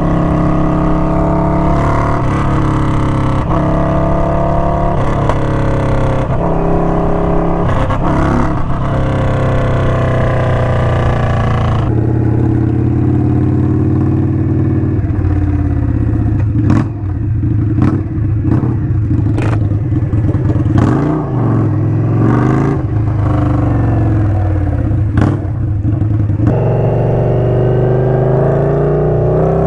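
Indian Scout's V-twin engine running through a Hacker Mayhem 2-into-1 exhaust, mostly at idle, with the engine note rising and falling. A few sharp clicks come through in the middle.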